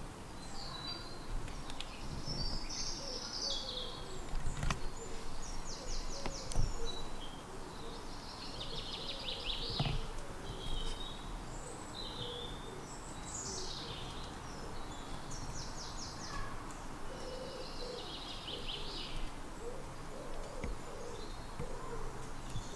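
Woodland birdsong: several birds repeating short, high trilling phrases, with low repeated calls in the second half and a few faint knocks.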